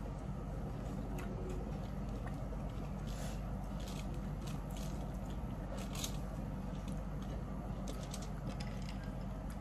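Close-miked eating sounds: short wet mouth smacks and chewing clicks scattered throughout, over a steady low hum.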